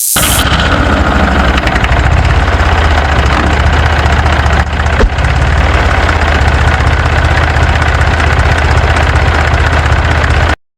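Mini tractor engine running steadily at idle with a fast even chugging pulse, then cutting off suddenly near the end; a single sharp click about halfway through.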